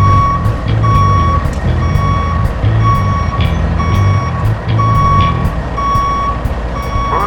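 Truck reversing alarm beeping steadily about once a second over a diesel engine's low running.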